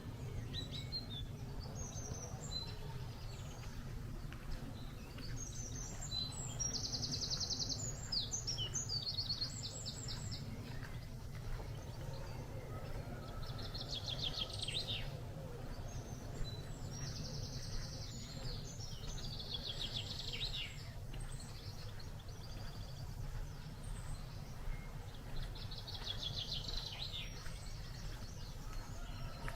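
Songbirds singing, with high, fast trilled phrases a second or two long coming several times. A steady low rumble runs underneath.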